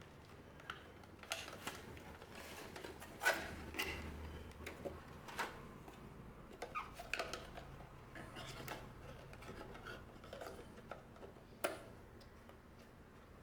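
Irregular clicks, taps and light crinkles of a trading card booster box and its packaging being handled and opened by hand.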